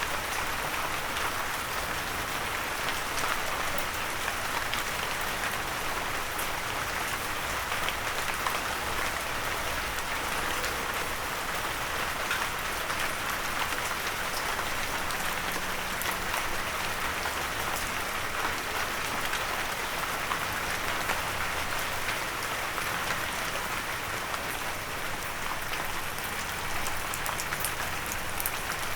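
Steady rain falling and pattering on a windowsill, a dense even hiss with many small drop ticks.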